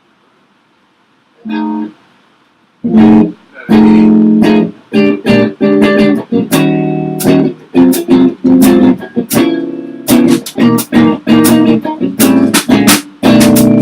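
Electric guitar strumming chords in a choppy, stop-start rhythm: a single chord about a second and a half in, then from about three seconds a run of short, sharply struck chords.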